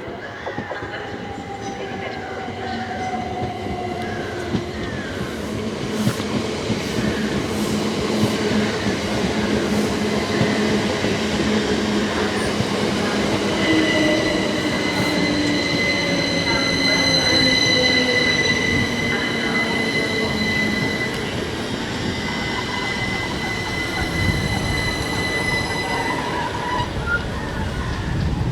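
Passenger train moving along the station platform, getting louder towards the middle, with tones that slowly fall in pitch. From about halfway in there is a high steady squeal from its wheels or brakes, which stops near the end.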